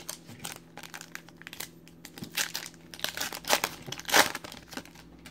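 Foil trading-card pack wrapper being torn open and crinkled: a run of irregular crackles and rips, the loudest a little after four seconds in.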